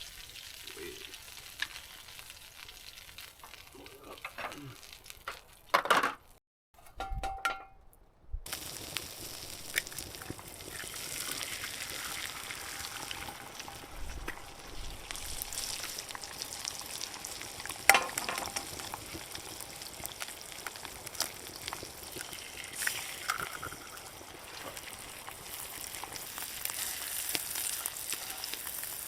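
Food sizzling in a frying pan, a steady hiss speckled with small pops. The sound drops out briefly about seven seconds in, then the sizzle carries on, with one sharp click a little past the middle.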